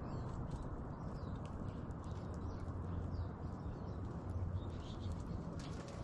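Small birds chirping faintly and intermittently, with a few light clicks, over a steady outdoor rumble.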